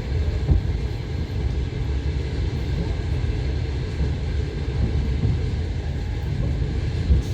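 Passenger train running, heard from inside the carriage: a steady low rumble with a couple of sharper knocks as the wheels clatter over the rails, about half a second in and near the end.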